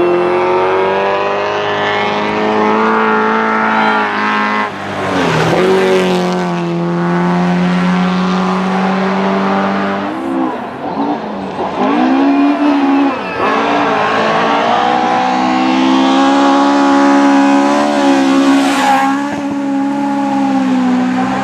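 Rally car engine running at high revs, its pitch climbing and then dropping sharply several times as the driver shifts gear and lifts off the throttle, with a rush of tyre noise about five seconds in and again near the end.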